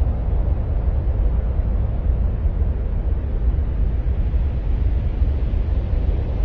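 Steady low rumbling noise with no events, heaviest in the deep bass and thinning toward the treble: a space-ambient 'sound of Mars' noise track.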